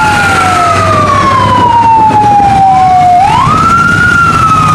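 Fire engine siren wailing loudly. Its pitch falls slowly, rises quickly about three seconds in, then falls again.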